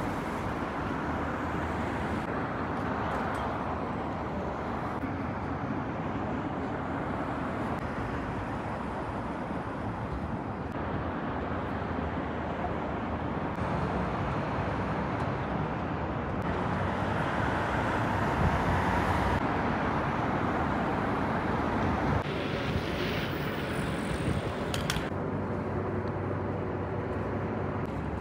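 Steady rumble of moving vehicles, with a few brief sharp sounds near the end.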